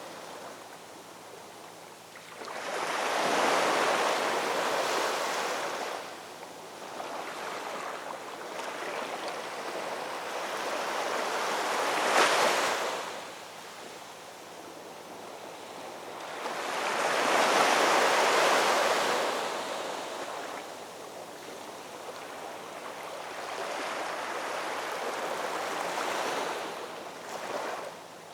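Ocean waves breaking on a shore in slow surges, each swelling and then washing back, with three loud breaks in the stretch and quieter wash between them.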